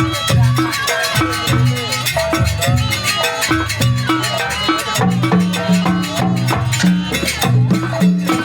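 Live jaranan-style music for a trance dance: drums beat a steady, fast rhythm under a melody with bending pitches, and deep sustained low tones come in from about five seconds in.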